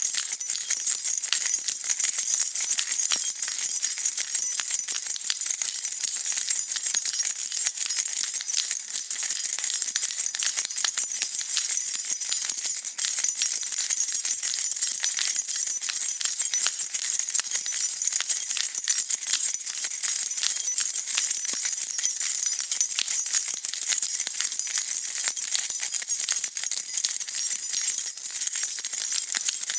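A bunch of metal keys being shaken continuously, a dense, steady jingling of many small clinks, bright and high-pitched, with no breaks.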